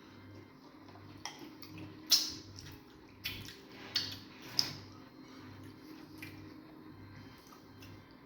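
Mealtime eating sounds: five sharp clicks and knocks, the loudest about two seconds in, over a faint steady hum.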